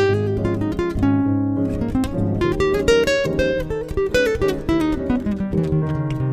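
Background music: acoustic guitar, plucked and strummed notes playing a melody over a low bass line.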